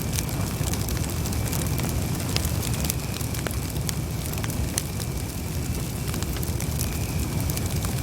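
Wood campfire burning: a steady low rumble of flames with scattered sharp crackles and pops.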